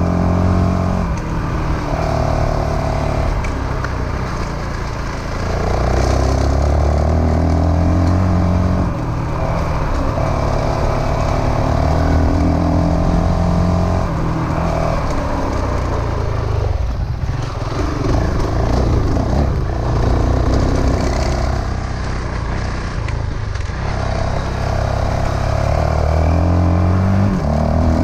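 Dual-sport motorcycle engine running under way, its pitch climbing and then dropping back several times as the bike accelerates and shifts through the gears.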